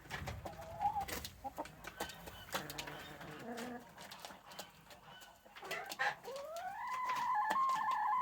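Chickens calling, with short calls and small clicks and knocks throughout, then one long drawn-out call that rises and then holds steady in the last two seconds.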